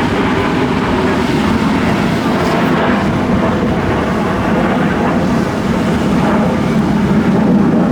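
An aircraft flying over, a steady engine noise with no breaks, heard over wind and surf.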